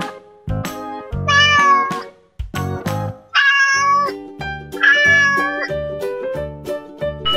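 Three cat meows, each under a second long, over children's background music.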